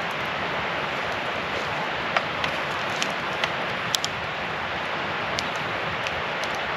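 Wood campfire burning: a steady hiss with a handful of sharp crackles and pops scattered through it, the strongest about two and four seconds in.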